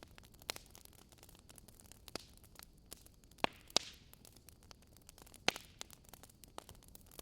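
Fireplace fire crackling faintly: scattered pops and snaps over a low hiss, with a few louder pops in the middle, one followed by a brief hiss.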